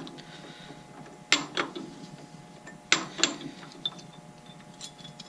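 Sharp metallic clunks and clicks, about half a dozen spread irregularly, as lathe tooling is handled and set up, over a faint steady hum.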